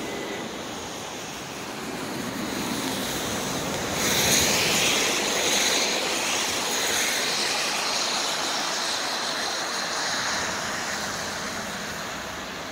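Distant CN freight train approaching, a steady rumbling hum mixed with passing road traffic, louder and with more hiss from about four seconds in until about ten seconds.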